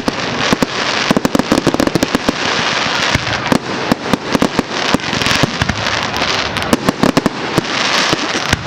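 Firework display: a dense run of sharp crackling bangs, several a second, over a steady hiss.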